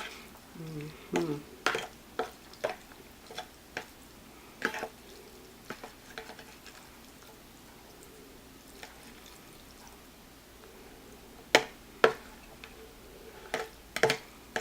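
Person eating spicy noodles: scattered wet mouth sounds and short slurps, with a few sharp clicks, the loudest two close together about twelve seconds in.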